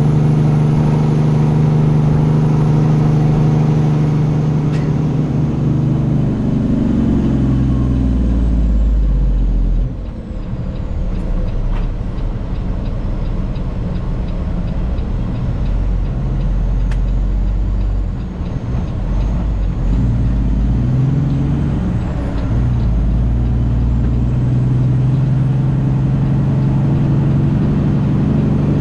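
Diesel engine of a heavily loaded semi truck running under way. Its pitch falls about a third of the way in, giving way to a deep low rumble with two brief dips in loudness, then climbs again near the end as the truck picks back up.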